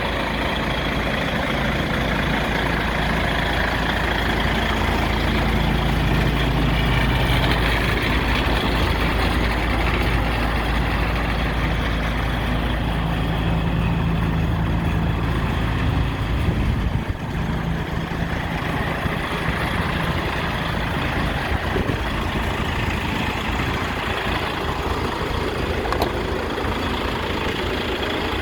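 DAF XF 105.510 truck's 12.9-litre straight-six diesel running at a steady idle, with a brief knock partway through.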